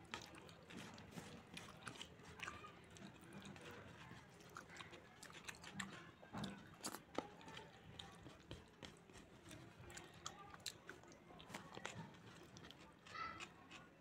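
Faint eating sounds: chewing mouthfuls of rice and palak paneer, with scattered small wet clicks as bare fingers mix the rice into the spinach gravy on a plate.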